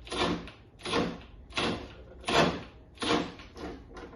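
Milwaukee M12 FUEL cordless power tool driving a socket in six short, evenly spaced bursts, about three-quarters of a second apart, as the fastener resists.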